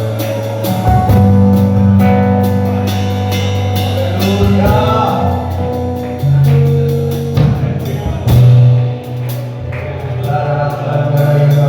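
Church worship music: a band with held bass notes and drums, with singing.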